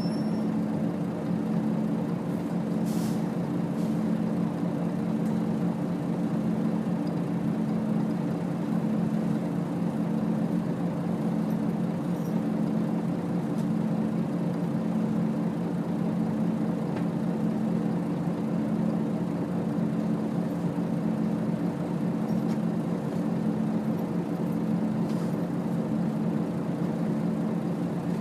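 Nissan Diesel UA city bus's diesel engine running at a steady pitch under way, heard from inside the passenger cabin with road noise, with a brief faint hiss about three seconds in.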